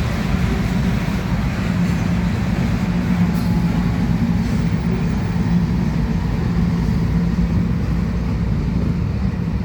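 Cars of a loaded gravel freight train rolling past on the rails: a steady, unbroken running noise with a low hum underneath.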